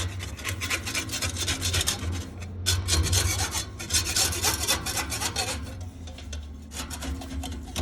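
Metal wire brush scrubbing the rusty steel exhaust pipe of a semi truck by hand: rapid rasping strokes, with brief pauses about two and a half seconds in and again near the end.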